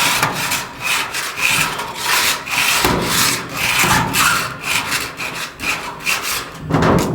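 Rhythmic back-and-forth scrubbing on a sheet-metal duct section, the rasping strokes coming about once or twice a second.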